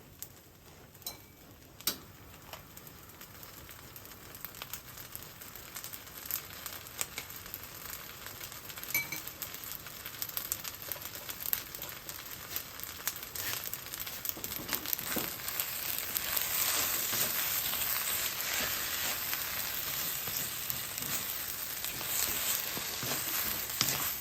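Fried rice sizzling in a frying pan as it is stir-fried, with a few sharp clicks of the utensil against the pan early on; the sizzle swells and grows louder about two-thirds of the way in.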